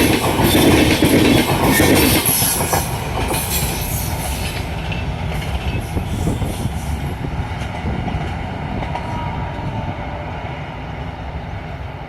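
Express train's coaches rolling past, the wheels clattering over the rails. The sound is loudest for the first couple of seconds, then fades steadily as the train draws away.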